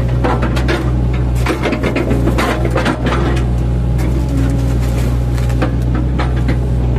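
Mini excavator's engine running steadily under load, with irregular crunching and knocking throughout as its bucket chops felled oil palm trunks into chips.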